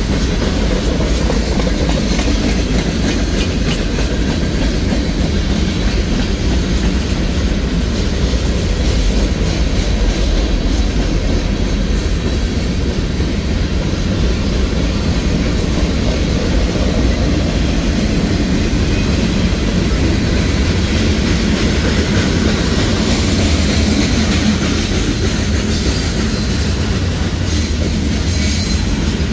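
Freight cars of a Norfolk Southern manifest train rolling steadily past: a continuous rumble and clatter of steel wheels on the rails.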